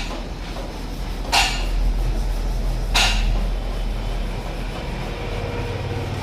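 Two sharp metal clanks about a second and a half apart over a steady low rumble, typical of engine parts being handled and knocked during work on a tractor engine.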